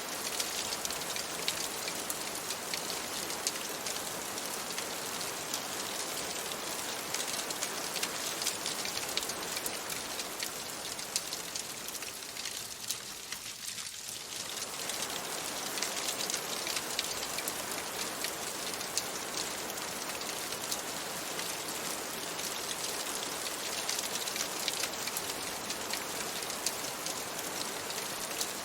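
Steady rain on a window: an even hiss dense with small drop ticks, easing slightly about halfway through.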